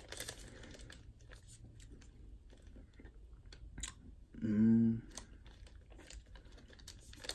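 Close-up chewing of a Snickers creamy almond butter bar: soft, wet mouth sounds with small scattered clicks, the filling soft rather than crunchy. A short hummed "mm" about four and a half seconds in.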